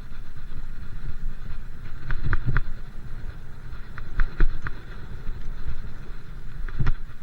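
Wind rumbling on the microphone while riding a bike, with short sharp clicks or rattles in small clusters about two seconds in, about four seconds in, and once near the end.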